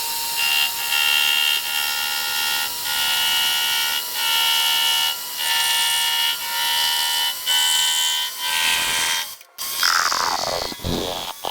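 A machine tool cutting metal: a steady high-pitched whine of several tones, broken briefly about once a second. Near the end it stops abruptly, and whines sweeping down in pitch follow.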